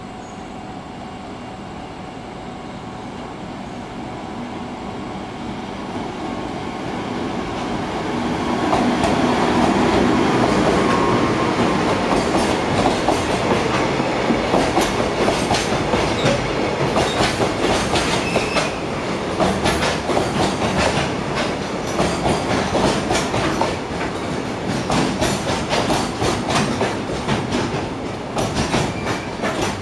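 Freight train pulling into a station: the rumble grows as it approaches and is loudest about nine seconds in as the head passes. After that, the wagons roll by with a steady clickety-clack of wheels over the rail joints.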